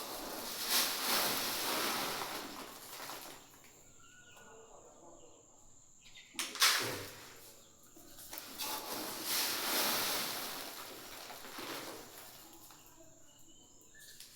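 Dry poultry feed being scooped and poured with a measuring bowl: two long rustling pours, with a sharp knock of the bowl about halfway through and another at the end. Faint chirps from the birds between pours.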